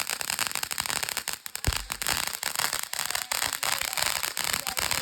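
Consumer firework burning with a steady hiss and rapid, dense crackling.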